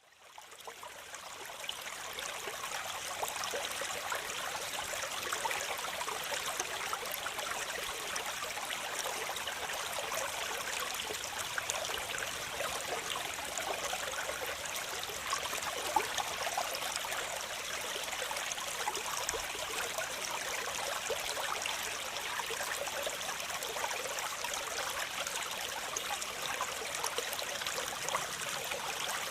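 Waterfall running: a steady rush and splash of falling water that fades in over the first few seconds and then holds even.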